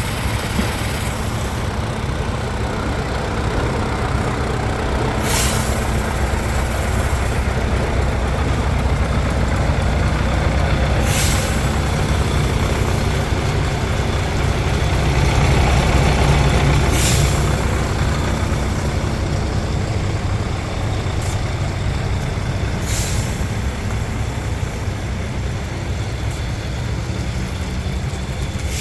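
Scania R143 truck's V8 diesel engine running steadily, with a short hiss of air about every six seconds.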